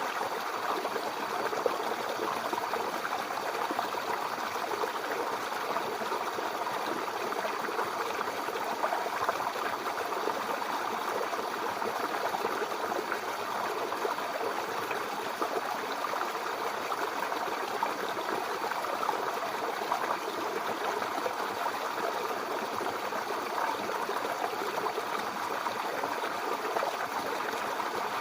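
Mountain river flowing over rocks, a steady rush of water with small splashes and gurgles throughout.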